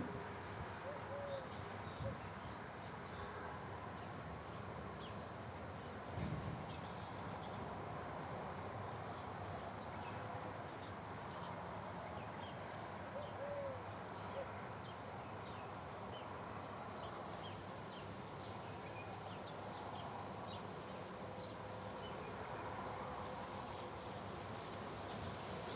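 Small birds chirping, with short scattered high calls over a steady outdoor background hiss, and a brief low bump about six seconds in.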